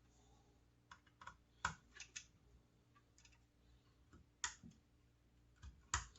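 Faint, scattered clicks and taps of a Phillips screwdriver and small plastic and metal parts being handled on an opened router housing, about eight light knocks at irregular intervals.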